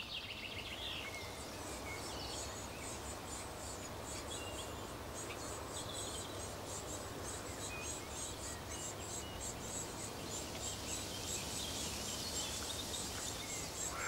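Small garden birds chirping over steady outdoor background noise. From about five seconds in there is a rapid, continuous run of very high, thin chirps.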